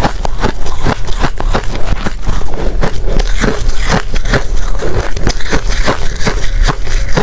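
Close-miked chewing of hard ice: rapid, loud crunches, several a second, as the ice is bitten and crushed between the teeth.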